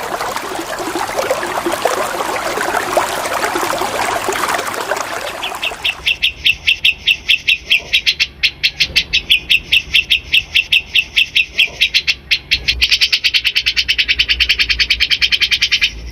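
Running water trickling, then about six seconds in a songbird starts a rapid string of sharp, evenly repeated chattering notes, about five a second, that quickens into a denser, higher trill near 13 seconds.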